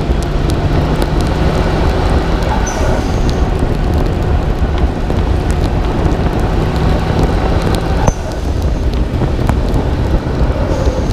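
Nissan Skyline R32 GT-R's twin-turbo straight-six running under way, heard through a hood-mounted microphone with heavy wind and road noise. About eight seconds in there is a sharp click and a sudden dip in the engine sound.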